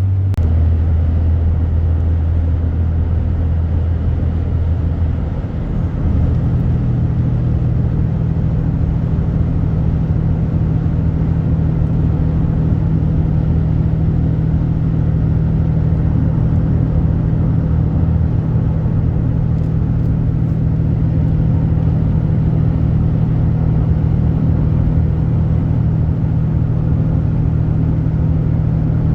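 Hotshot pickup truck under way: a steady, loud low engine and road drone. About five and a half seconds in it dips briefly, then settles at a higher pitch and holds there.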